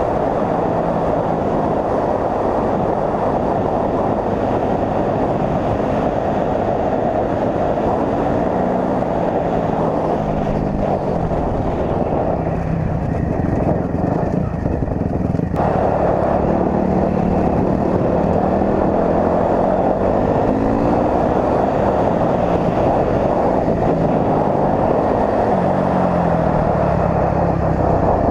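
Dirt bike engine running while riding, its pitch rising and falling with the throttle under a steady rush of noise. The sound changes abruptly about halfway through.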